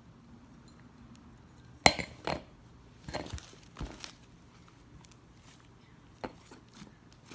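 A few short, sharp knocks and clinks of hard objects being handled and set down, the first, about two seconds in, the loudest.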